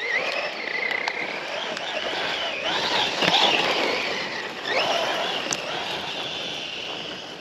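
Brushless electric motor of a Losi RC off-road truck whining, its pitch rising and falling several times with the throttle, over the gritty noise of the tyres on the ground.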